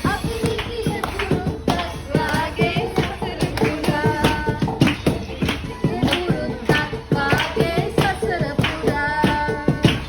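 Singing accompanied by steady rhythmic clapping.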